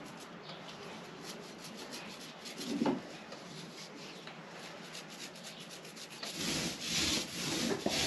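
Paint being brushed and rolled onto the boat's bilge: a faint rubbing, then a run of louder rubbing strokes in the last two seconds.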